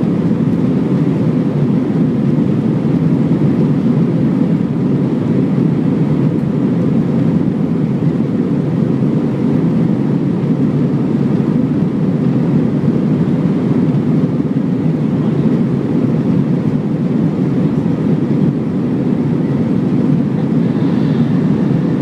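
Steady jet airliner cabin noise in flight: an even, low rumble of engines and airflow heard from inside the passenger cabin.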